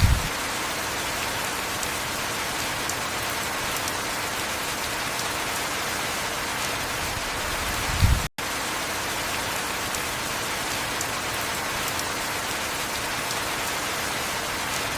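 Steady heavy rain. A brief low thump comes right at the start and again about eight seconds in, and the sound cuts out for a split second just after the second thump.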